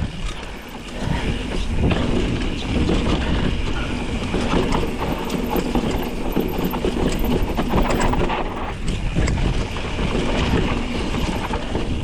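Mountain bike clattering over a rough dirt and rock trail: tires crunching, and the frame and chain rattling with each bump.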